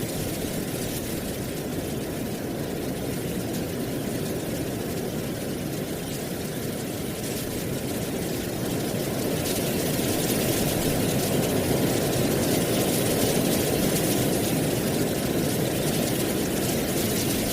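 Autumn wind blowing through trees and dry leaves, a steady rushing noise with leaf rustle that grows louder about ten seconds in.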